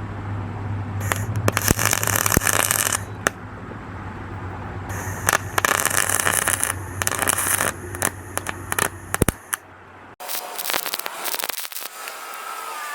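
Aluminum MIG spool-gun welding on a cast aluminum part: two runs of arc crackle, a few seconds each, over a steady low hum from the welder. About ten seconds in the hum stops, and scratchy clicking and scraping follow.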